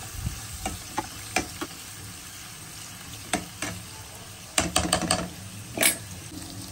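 Onion, tomato, cashews and whole spices sizzling steadily in hot oil in a nonstick kadai, while a silicone spatula stirs them, scraping and tapping against the pan. A quick run of sharper knocks comes about two-thirds of the way in, and another just after.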